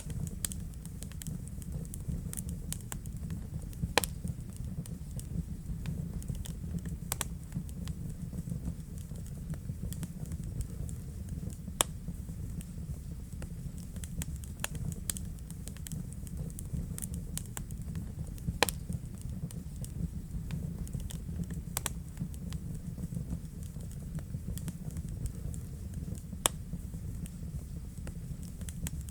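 Wood fire burning in a fireplace: a steady low rumble of the flames with frequent irregular crackles and pops, a few sharper snaps standing out.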